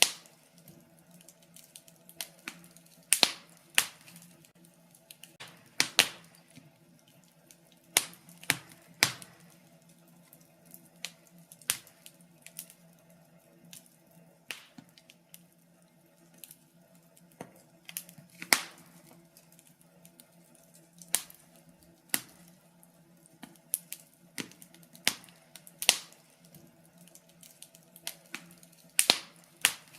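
Wood fire crackling in a fireplace: irregular sharp snaps and pops, a few of them loud, scattered throughout.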